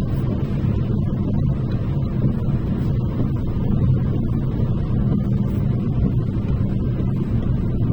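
Steady rumble of a car driving at speed, heard from inside the cabin: engine and tyre noise with a low even hum.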